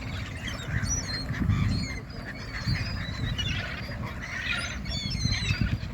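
A flock of waterbirds, ducks and gulls, calling: many short, high calls overlapping one another. A low rumble underneath swells about one and a half seconds in and again near the end.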